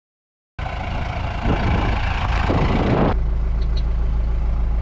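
Tractor diesel engine running: after a brief silence it comes in rough and noisy, then from about three seconds in it becomes a steady low drone.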